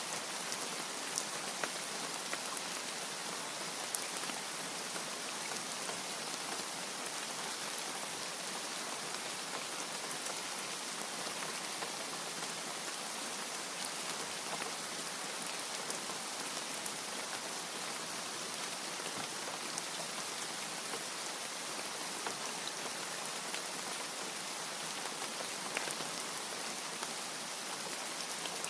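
Steady rain falling, an even hiss with scattered individual drop ticks and no thunder.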